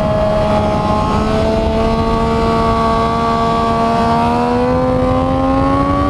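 Motorcycle engine pulling under load in gear, its pitch climbing slowly and steadily, with rough wind noise underneath.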